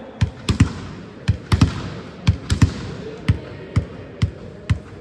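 About a dozen sharp thuds at uneven intervals, some in quick pairs and threes.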